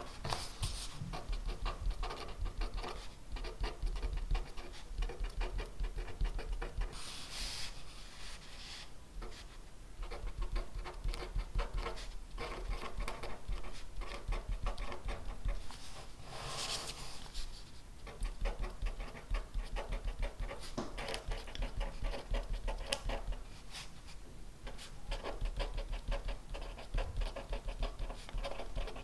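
Pen writing on paper: a steady run of small scratches and taps from the strokes, with two brief louder swishes about seven and sixteen seconds in.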